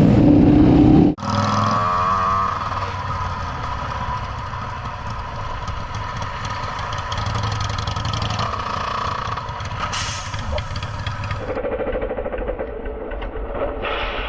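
Motorcycle engine running steadily while the bike is ridden. The sound changes abruptly about a second in and again near the end.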